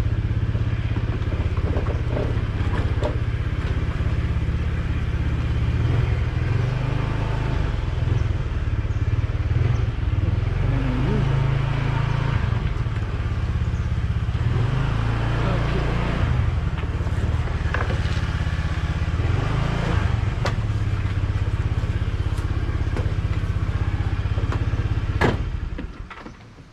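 Motorcycle engine running at low speed, its pitch shifting a little. A sharp click comes near the end, and the engine sound then dies away as it is switched off.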